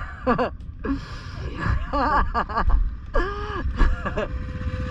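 A woman's excited wordless whoops and squeals in short bursts, over the low rumble of a motorcycle engine.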